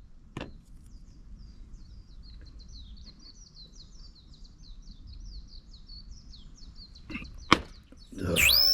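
A small songbird singing a long rapid run of short, high, chirping notes. A few sharp clicks come near the end, one of them loud, and in the last half-second a louder swooping sound cuts in.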